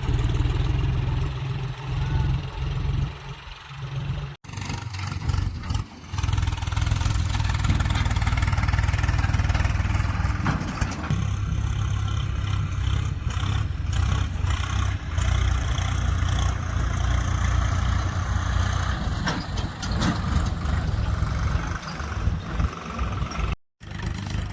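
Diesel tractor engine running steadily with a heavy low rumble; the sound cuts out briefly twice.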